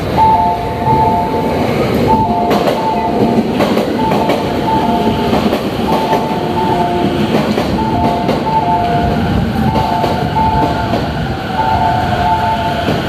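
Yellow-striped JR Chūō-Sōbu Line commuter train pulling into the platform and rolling past, wheels and motors rumbling, over a two-note chime that repeats about every two seconds.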